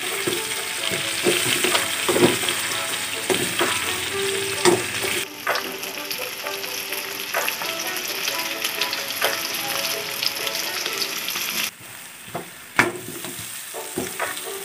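Chicken pieces, potato and carrot chunks sizzling as they fry in a pan, with scattered knocks and scrapes of a spatula stirring them. The sizzle drops suddenly about five seconds in and again near the end.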